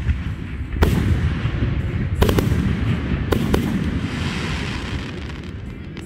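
Aerial firework shells bursting overhead: about four sharp bangs, two of them close together near the middle, each followed by a low rolling rumble and echo.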